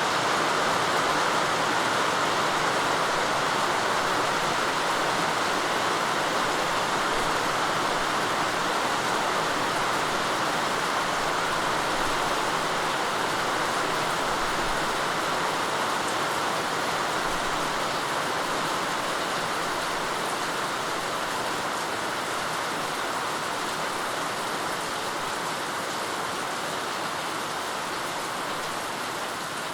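Steady rainfall, an even hiss of rain that eases slightly in loudness toward the end.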